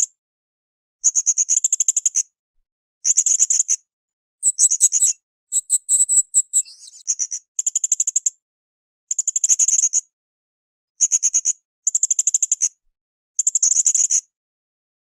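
Blue-crowned hanging parrot (srindit) calling in about nine bursts of rapid, high-pitched pulsed notes, each burst about a second long with short silences between. Around the middle come a few higher, choppier phrases.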